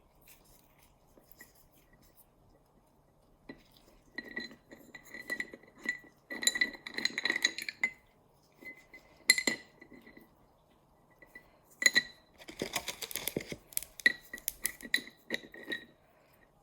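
A glass container clinking and ringing as it is handled, in clusters of small knocks with a high ringing tone, once on its own about nine seconds in.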